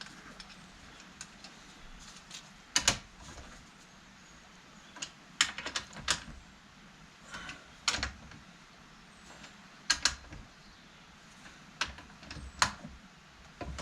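Scattered sharp clicks and light metallic knocks of hand tools, among them a torque wrench, working the bolts of a tractor hydraulic pump. About half a dozen louder knocks come irregularly, a second or two apart.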